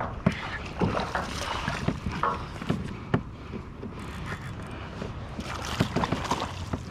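Water sloshing and splashing around a kayak hull, with wind on the microphone and several short, sharp knocks.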